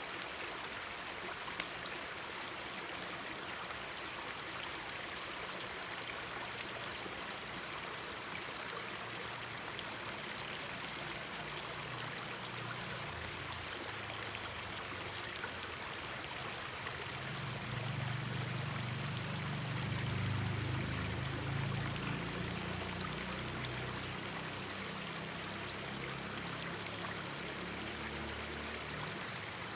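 Mountain stream babbling steadily, with a few faint crackles from a campfire near the start. A low rumble swells up around the middle and fades again.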